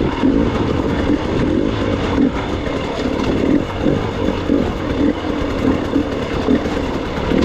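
Gas Gas EX 300 two-stroke dirt bike engine running as the bike is ridden over rough terrain, its sound rising and falling unevenly with the throttle.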